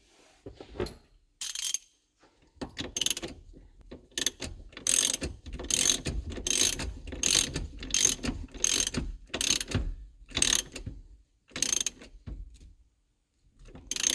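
Hand ratchet tightening the steering wheel retaining nut: about a dozen strokes of pawl clicking at a steady pace, a little faster than one a second, then a pause and one last stroke near the end.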